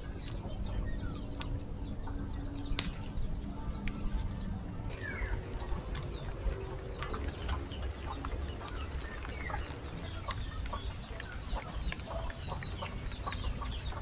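Birds chirping, many short scattered calls, over a steady low rumble.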